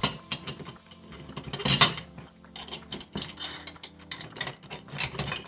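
Bolts and hand tools clicking and clinking against the mill's metal parts as its bolts are fitted and tightened, in an uneven run of sharp metallic clicks with one louder clank about two seconds in.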